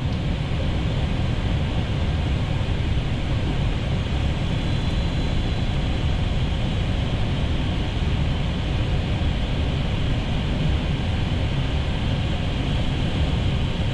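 Steady rush of airflow and engine noise inside an Airbus A320neo cockpit on final approach, even and unchanging.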